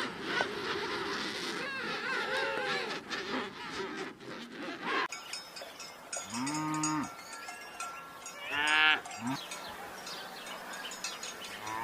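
Cows mooing: several separate long moos in the second half, the loudest about nine seconds in, with cowbells ringing thinly. The first few seconds before a sudden cut hold a noisier mix of wavering animal calls.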